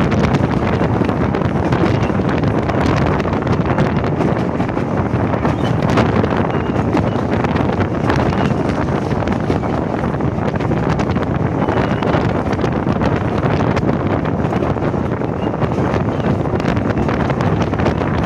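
Steady wind buffeting the microphone from a moving train's carriage window, over the continuous rumble of the diesel-hauled passenger train running along the track.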